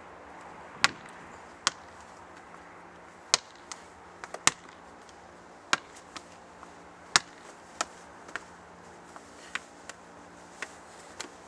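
A firmly inflated soccer ball being played with, hitting a hard surface again and again: sharp, short smacks at irregular intervals, roughly one or two a second, some louder than others.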